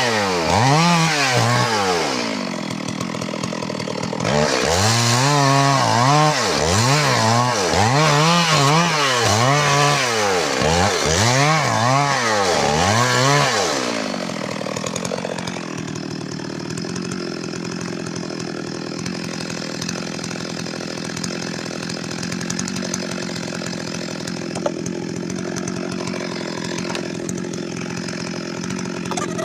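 Stihl MS 382 two-stroke chainsaw engine revving up and down over and over, about once a second. About halfway through it drops back to a steady idle.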